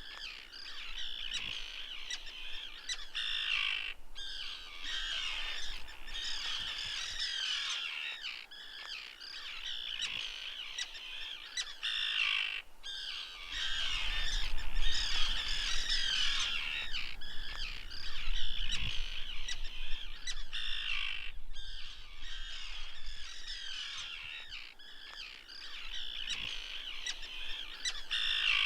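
A dense, continuous chorus of birds squawking and chirping. A low rumble rises under it from a little under halfway through and fades out about two-thirds of the way in.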